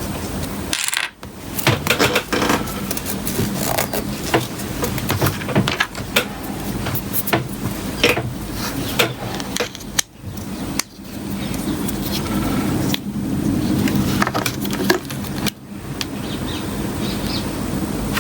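Irregular small clicks and taps of hard metal and plastic parts being handled while reassembling a Suunto X-Lander watch, over a steady low hum.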